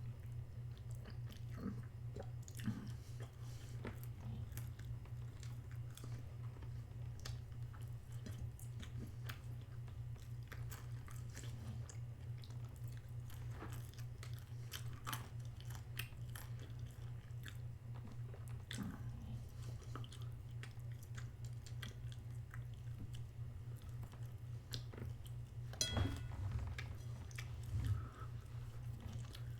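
A person chewing and biting into a chicken burger and fries close to the microphone, with wet, crunchy clicks. A steady low hum sits underneath, and there are two louder knocks near the end.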